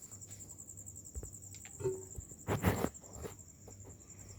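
An insect, likely a cricket, chirring steadily with a fast high pulsing trill, with two short noises about two seconds in, the second louder.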